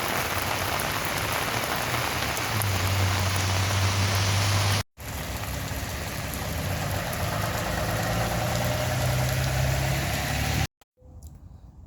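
Steady rain falling and splashing on the ground, with a low steady hum underneath, broken by a brief cut about halfway through.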